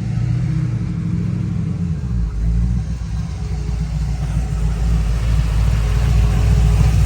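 A car engine running with a deep, steady rumble that grows gradually louder.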